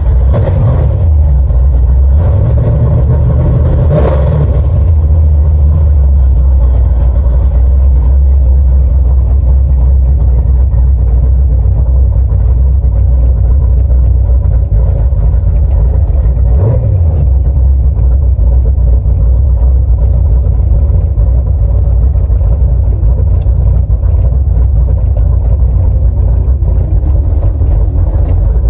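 1982 Ford Mustang GT's small-block Ford V8 running just after a cold start, revving up briefly a few seconds in before settling into a steady idle, with one quick blip of the throttle about two-thirds of the way through.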